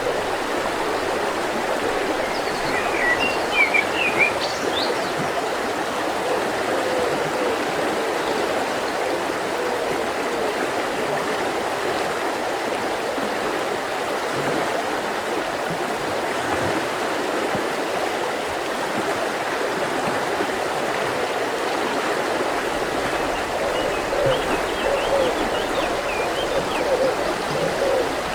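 Mountain river flowing in a steady rush. Short bird chirps come about three seconds in and again near the end.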